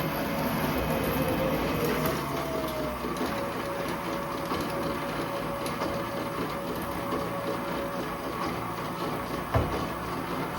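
Metal lathe running and cutting a metal workpiece: a steady mechanical running noise with a mid-pitched whine, and one sharp knock near the end.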